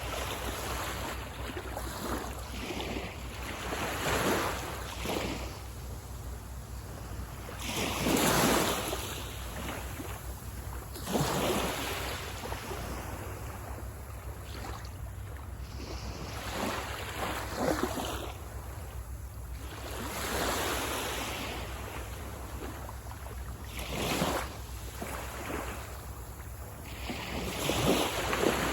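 Sea waves breaking and washing up a beach, a surge every few seconds that swells and fades, the strongest about a third of the way in and near the end, over a steady low rumble of wind on the microphone.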